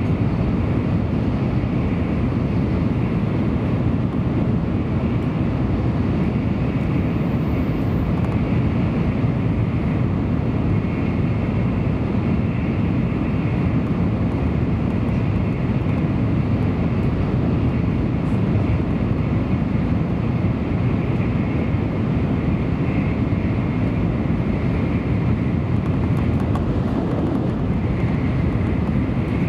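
Interior running noise of a Tokaido Shinkansen train at speed, heard inside the passenger car: a steady, even rumble and rush with no breaks or events.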